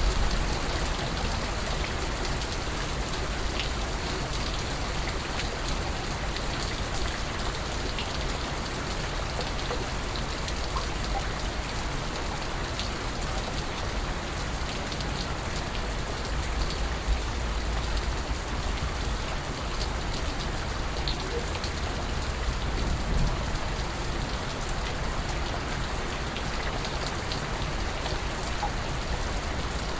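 Steady rain falling on a surface, an even hiss with scattered drips and drops.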